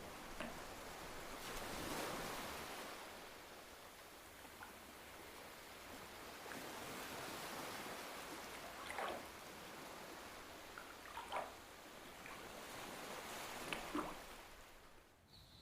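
Moving water washing steadily, swelling and easing, with a few short splashes. Just before the end it cuts off and a steady high insect chirring begins.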